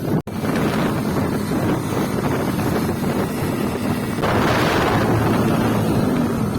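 Wind buffeting the microphone over a steady low rumble, cutting out for an instant near the start.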